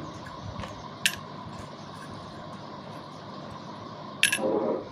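Two sharp clinks of small metal vacuum-motor parts being handled during reassembly: a light one about a second in and a louder one with a short ring near the end, over faint steady hiss.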